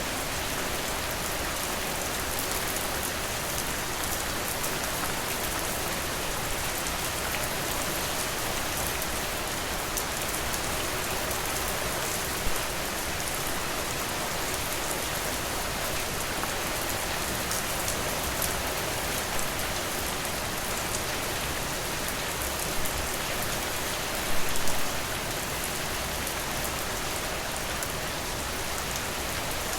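Steady rainfall with drops pattering on a surface, a dense even hiss with occasional louder individual drops, a brief cluster of them about 24 seconds in.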